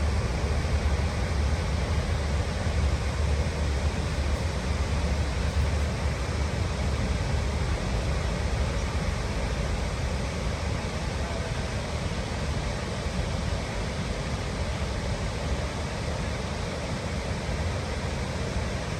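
Steady rushing of falling water from a large waterfall, an even wash of noise with a heavy low rumble.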